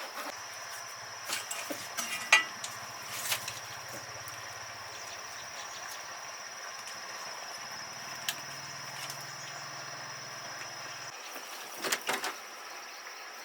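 A steady high-pitched insect drone, crickets or cicadas, with a few sharp clicks and knocks scattered through it, the loudest a cluster near the end.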